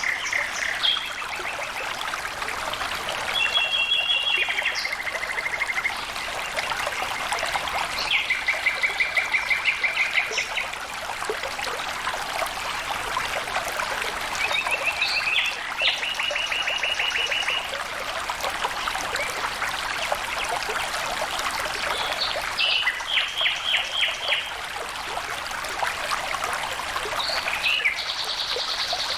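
Water trickling and flowing steadily, like a small stream. A bird sings short, rapid trilled phrases over it every few seconds.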